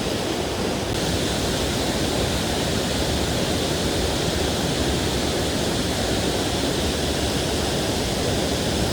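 Mountain stream water rushing steadily over rocks, an even roar of running water.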